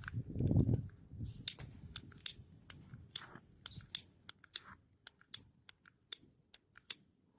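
A hand-held lighter clicked over and over, about two sharp clicks a second, without catching.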